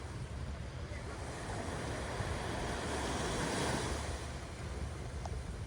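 Ocean surf: a wave swells and breaks about three to four seconds in, then eases back, over a steady low rumble of wind buffeting the microphone.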